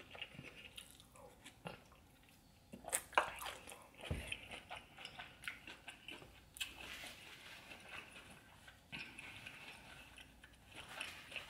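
Close-miked eating of a buttery seafood boil: wet chewing and lip smacking with scattered crunches and clicks, and a low thump about four seconds in.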